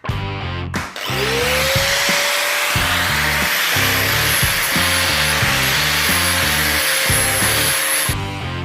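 An electric power tool runs under load. Its motor spins up about a second in, holds a steady whine with a loud hiss, and stops near the end, over background guitar music.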